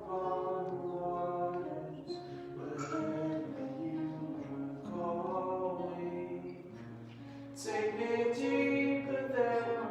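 Worship singing, voices holding sung notes in a slow hymn with light instrumental backing.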